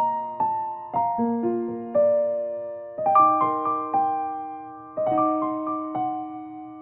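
Slow, gentle piano music. A new note or chord is struck about once a second, and each one fades away before the next.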